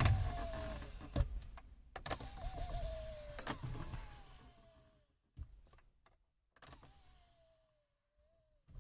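Audi A6 C7 retractable MMI display's electric motor running the screen in and out: a motor whine that slides down in pitch, in several runs broken by short clicks. The folding mechanism is freshly greased with silicone and PTFE grease and runs without crunching.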